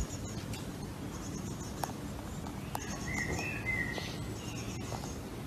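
Small birds chirping: short high notes and brief trills come and go, over a steady low outdoor background noise.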